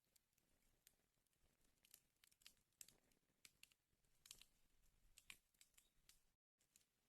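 Faint crackling of burning wood: irregular sharp pops and snaps over a low hiss. The sound drops out completely for a moment near the end.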